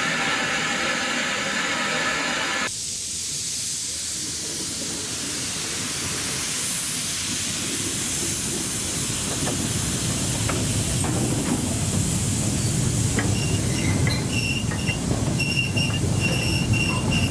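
Steam hissing, then a steam train approaching: a rumble that grows louder, with scattered wheel clicks over the rails and high-pitched squeals of wheel flanges in the last few seconds.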